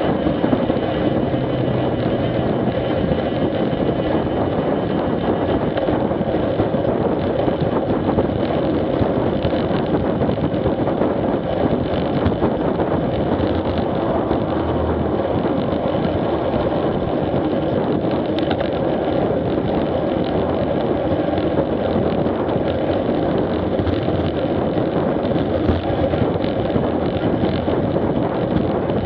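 Steady wind noise on an action camera's microphone while riding a bicycle, mixed with the hum of tyres rolling on pavement.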